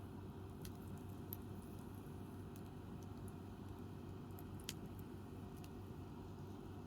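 Wood fire crackling: a handful of scattered sharp pops over a steady low rumble, the loudest pop a little before five seconds in.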